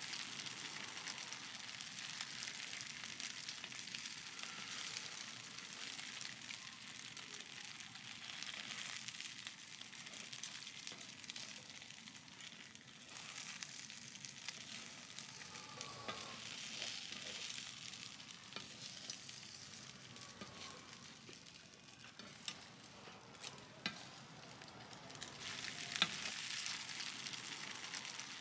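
Steam-fried pork buns sizzling in oil in a wide frying pan: a steady frying hiss, with a few sharp clicks in the last few seconds.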